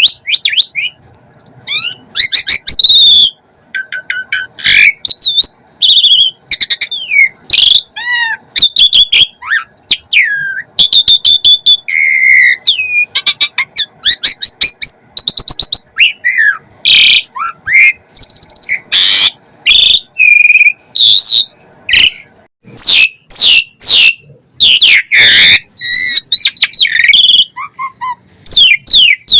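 Asian pied starling (jalak suren) singing a long, fast, varied song of loud whistles, up-and-down sweeping notes, harsh chirps and rapid trills, packed with mimicked phrases (a 'full isian' song).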